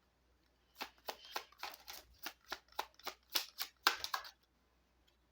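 Tarot cards being shuffled by hand: a quick run of short papery snaps and flicks for about three seconds, starting about a second in.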